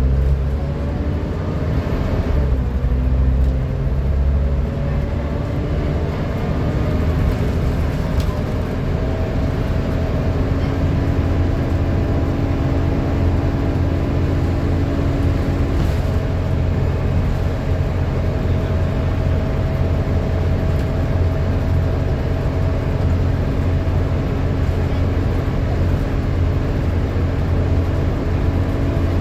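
Volvo B7TL double-decker bus's 7-litre six-cylinder diesel running with a steady low drone, under a loud vacuum-cleaner-like whine, the 'hoover' sound. The whine shifts slightly in pitch about two seconds in, and a lower tone in it drops out about halfway through.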